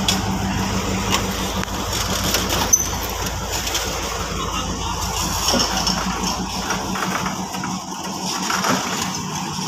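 Covered goods wagons of a freight train rolling past close by: a steady rumble of steel wheels on rail with scattered clicks and clanks. The deepest part of the rumble fades about seven seconds in.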